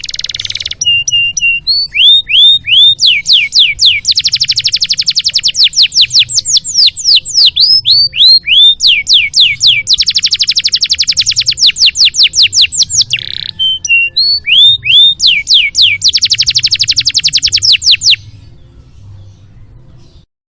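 Domestic canary singing a long, varied song with full fills: repeated downward-slurred whistles alternating with fast rolling trills, stopping abruptly near the end.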